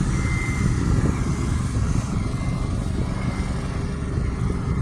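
Peterbilt 520 McNeilus ZR garbage truck's engine running steadily at idle, a low even rumble.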